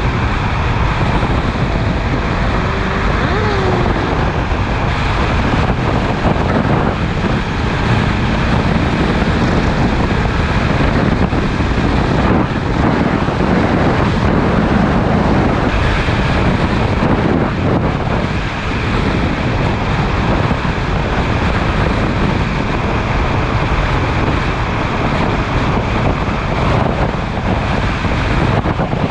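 Steady wind rushing over a GoPro microphone on a motorcycle riding at speed, with the bike's running noise blended into the rush.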